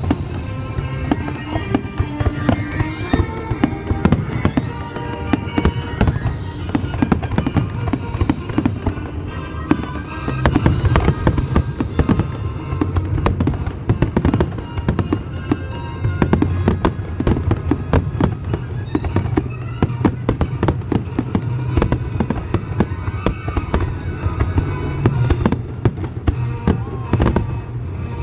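Aerial fireworks going off in a rapid, continuous barrage of bangs and crackles, with music playing along throughout.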